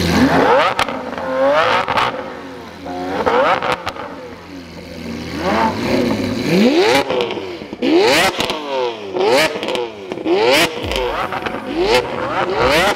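High-performance supercar engine being revved repeatedly in short blips, its pitch climbing and falling back each time, with sharp cracks in between. The blips come sparsely at first, then about once a second in the second half.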